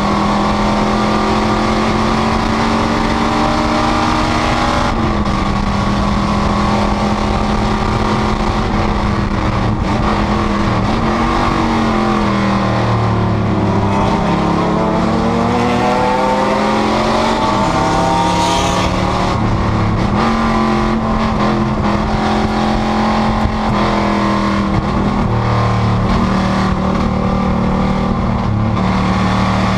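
Panoz GTS race car engine running hard at racing speed, its pitch repeatedly falling and climbing again through gear changes and braking into corners.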